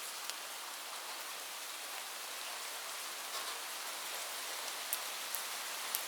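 Light rain falling steadily in an even hiss, with scattered individual drops ticking on a surface, a few louder ones near the end.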